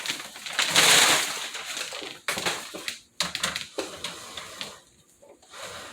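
Horizontal window blind being pulled down: its slats clatter in a dense rush, then give a string of separate clicks and knocks as they settle.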